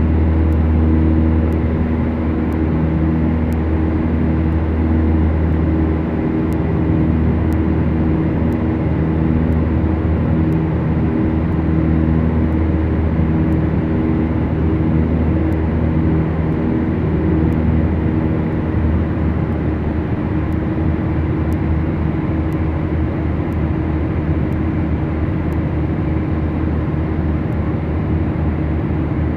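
Beechcraft Duchess's two four-cylinder Lycoming piston engines and propellers droning steadily in flight, with a slow, regular pulsing beat in the engine note.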